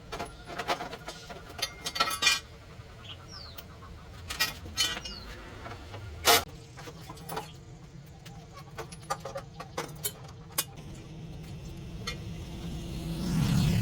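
Irregular metallic clinks and knocks of hand tools and motorbike parts being handled and set down, some with a brief ring. A low sound swells near the end.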